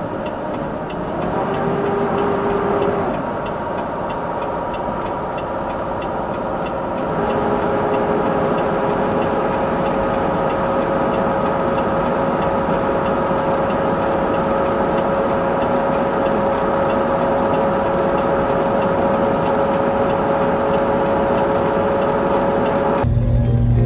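Vehicle engine running steadily with road noise, a couple of steady tones over it, and a faint regular ticking in the first half.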